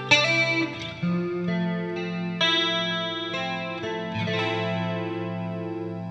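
Electric guitar, a 1995 Fender Strat Plus, played through a Fractal Audio FX8 Mk II effects processor: a series of chords and single notes struck roughly once a second and left to ring under a modulation effect.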